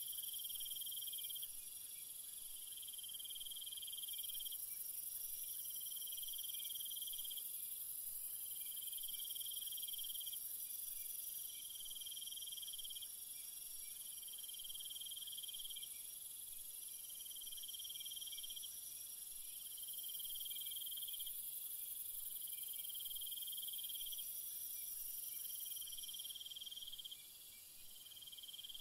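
Night-time jungle ambience: a chorus of calling insects. One high trill sounds in bursts of about two seconds, roughly every three seconds, over a steadier, even higher insect drone.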